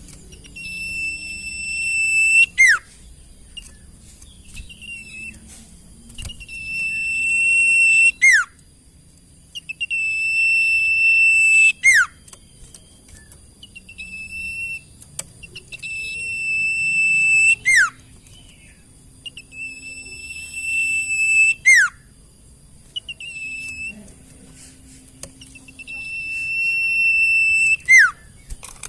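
Sirtu bird song played as a masteran tutor recording: a held, high whistled note that swells in loudness for a second or two and ends in a quick downward-swooping whistle, repeated six times with softer short notes in between.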